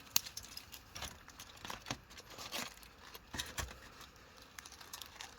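Aluminium foil crinkling and rustling in short, irregular crackles as a foil-wrapped parcel is handled and opened.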